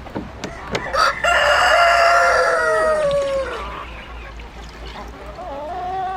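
A rooster crows once, a single long call of a bit over two seconds that drops in pitch as it ends. Chickens cluck with short wavering calls around it.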